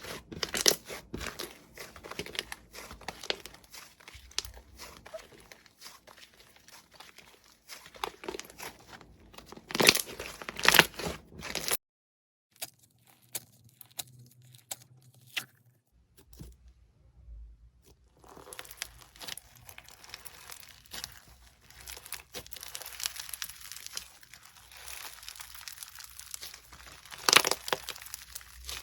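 Hands squeezing, stretching and pressing crunchy slime: dense runs of small crackles and crunches, with louder crunchy bursts about ten seconds in and again near the end. The crackling stops for a few seconds a little before the middle, then resumes.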